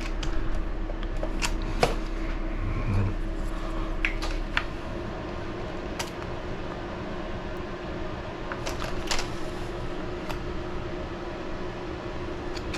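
Scattered light clicks and taps of small RC buggy parts being handled and test-fitted on the chassis, about ten over several seconds, over a steady low hum.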